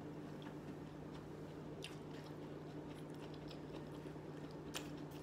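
Quiet chewing of shrimp and rice with small mouth clicks, over a steady low hum. Near the end a plastic fork clicks against the plastic takeout bowl.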